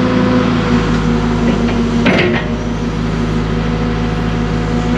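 Diesel engine of a new Cat excavator running steadily at high idle, a constant hum. A brief knock or clatter sounds about two seconds in.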